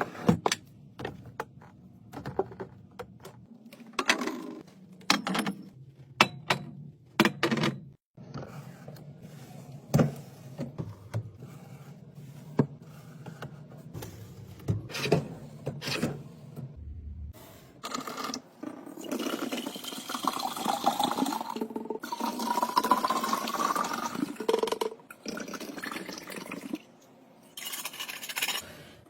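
A drink being poured into a container, splashing steadily for several seconds with a pitch that rises as the container fills. Before it come scattered clicks and knocks of containers being handled and set down.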